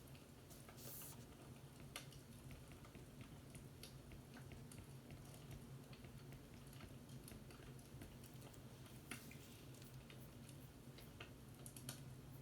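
Faint fireplace crackle: soft pops and clicks at irregular moments, one longer hissing crackle about a second in, over a low steady hum.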